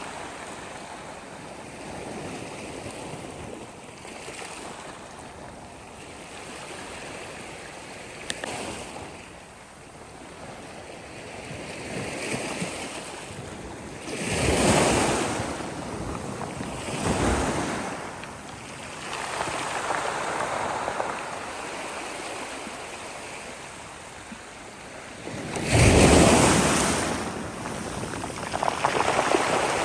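Sea waves breaking and washing onto the shore, the surf swelling in and ebbing every few seconds, with the biggest breakers about halfway through and near the end.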